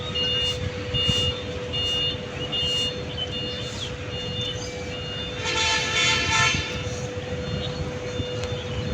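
Truck engines running with a low rumble, over a repeating high electronic beep about once a second like a reversing alarm. A vehicle horn toots once for about a second, around six seconds in.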